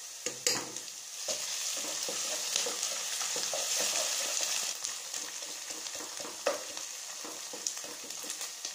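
Chopped onions sizzling as they fry in hot ghee in a pot, with a wooden spoon stirring and scraping and a few short knocks. The sizzle swells for a few seconds about a second and a half in, as ginger-garlic paste goes into the hot ghee.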